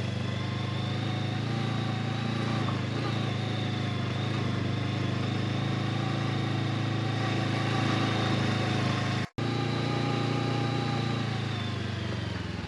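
Honda CB500X parallel-twin motorcycle engine running at a steady speed while riding, with a brief cut-out of all sound about nine seconds in.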